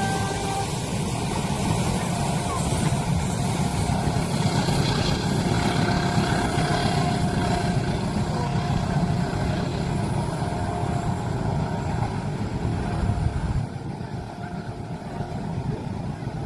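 Train passing at a level crossing: a loud, steady, heavy rumble that drops off suddenly about thirteen and a half seconds in.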